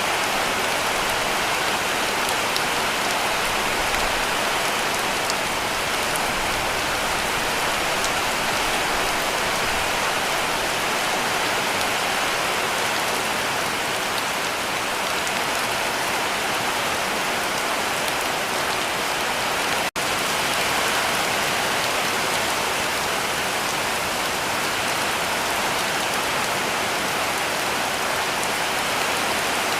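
Heavy rain falling steadily on a cabin roof, a dense even patter. About two-thirds of the way through it cuts out for a split second.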